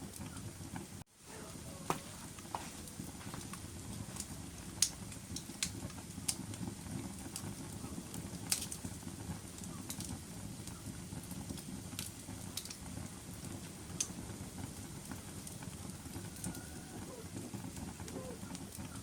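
Wood fire crackling in a fireplace: a steady low rumble of burning with sharp pops and snaps at irregular intervals. The sound cuts out briefly about a second in.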